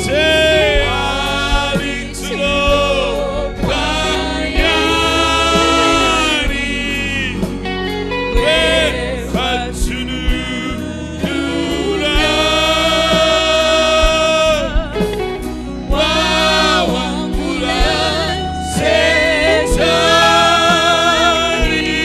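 Gospel singing with instrumental accompaniment: a voice sings phrases of a few seconds each with vibrato, over a steady low backing.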